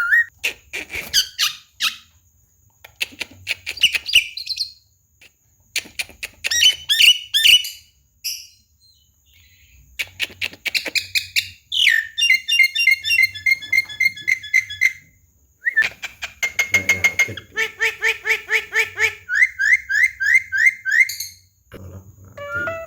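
Javan myna (jalak kebo) singing a varied, loud run of phrases: harsh clicks and squawks, rapid strings of repeated notes, and series of rising whistled notes, with short pauses between phrases. The song is full of mixed-in imitated calls, the 'full isian' that keepers prize.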